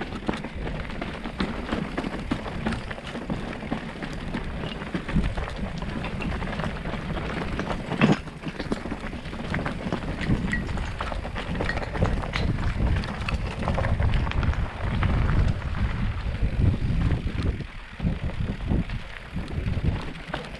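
Wind buffeting the microphone, surging and easing, over a dense crackle of clicks and knocks from moving along a rough trail, with one sharper knock about eight seconds in.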